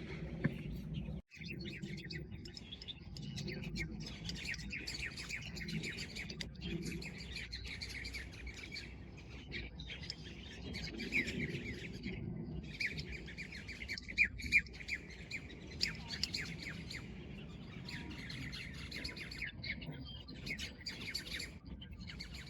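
Birds chirping and tweeting in a dense, near-continuous chatter of short calls, with a brief break about a second in.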